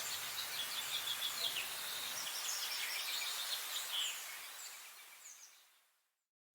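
Several small songbirds chirping and singing in quick short notes over a steady outdoor hiss, the whole sound fading out to silence over the last two seconds or so.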